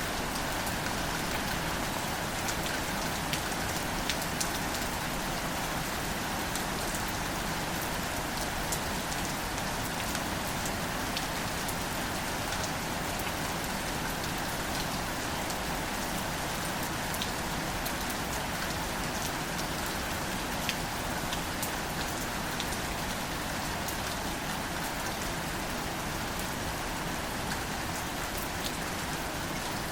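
Gentle rain falling steadily on greater celandine wildflowers and leaves: an even hiss of rain with many small, scattered drop ticks.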